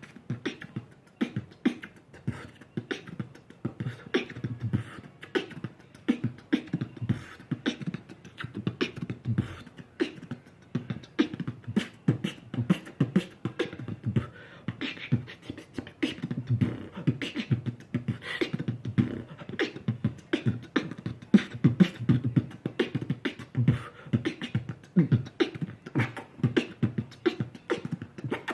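Solo beatboxing freestyle: a voice making fast, rhythmic drum sounds, deep kick-like thumps mixed with sharp snare and hi-hat clicks, several strokes a second with no pause.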